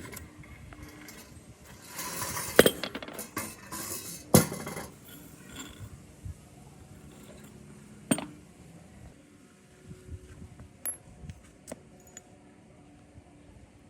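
Metal parts and tools being handled at a repair bench: clinking and rattling with three sharp knocks, the loudest a few seconds in, then scattered light clicks.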